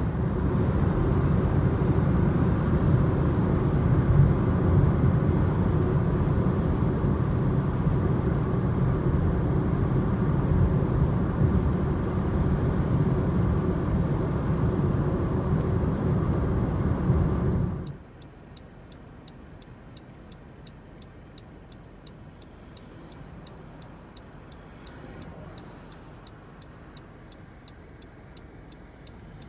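Car cabin noise at highway speed: a steady low rumble of tyres and engine. About two-thirds of the way in it cuts off abruptly to a quiet interior, where the car's indicator or hazard flasher ticks at a regular pace.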